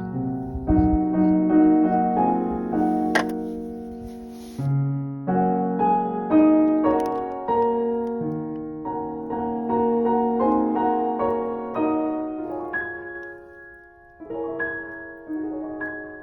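Solo piano background music: gentle chords and melody notes that ring and fade, thinning out near the end.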